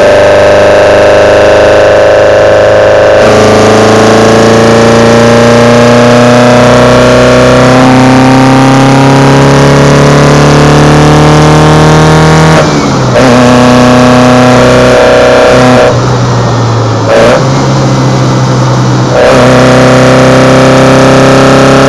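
Kadett GS 16v engine breathing through side-draft Solex C40 ADDHE carburetors, pulling up through the revs with a steadily rising pitch. The pitch drops at a gear change about three seconds in and again around thirteen seconds. After that it holds a steadier speed, with a few brief dips.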